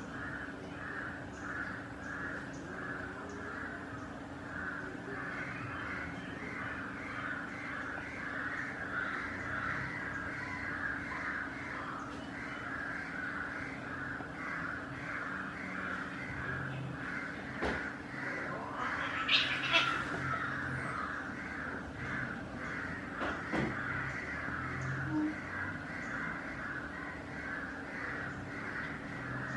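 A bird calling over and over, about two short harsh calls a second. A brief, louder, higher screech breaks in about two-thirds of the way through.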